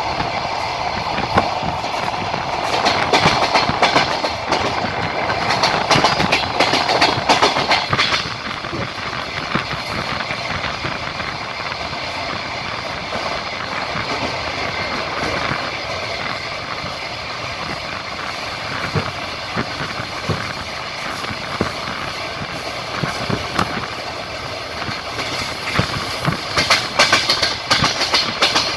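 Passenger train rolling at speed, heard from on board: a steady rumble of wheels on rail with clattering knocks as the wheels cross rail joints. The clatter is loudest a few seconds in and again near the end.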